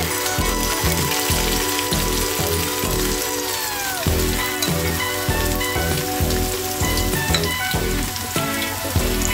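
Kuku sabzi herb patties frying in hot oil, a steady sizzle, under background music with sustained notes and a regular beat.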